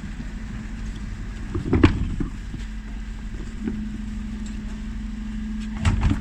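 Dennis Elite 6 bin lorry running steadily with a held hum, with two sharp clunks, one about two seconds in and one near the end.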